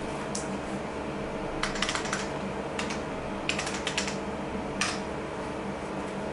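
Typing on a vintage IBM PC keyboard: about a dozen key presses in short bursts and single strokes. Under it, the steady hum of the running computers' fans.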